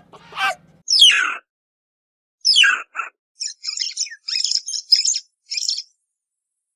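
A few high, downward-sliding dog yelps, then a small bird chirping in quick, high twittering bursts for about two seconds.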